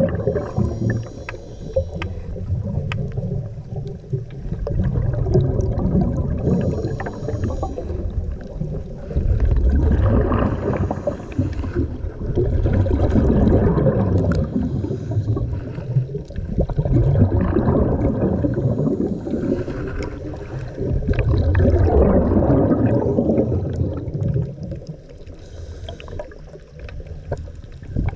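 Scuba diver's exhaled bubbles gurgling past the microphone underwater, coming in loud bursts every few seconds with the breathing, with quieter stretches between.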